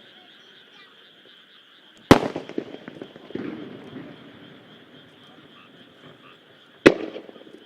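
Two aerial firework shells bursting, one about two seconds in and another near the end, each a sharp bang followed by a rolling echo and crackle.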